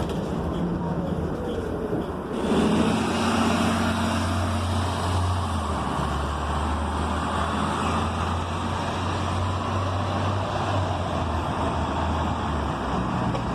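Inside a New Flyer XN40 city bus: its Cummins Westport ISL G natural-gas engine runs with a low steady hum while the bus is under way. About two seconds in, a hiss rises suddenly and stays.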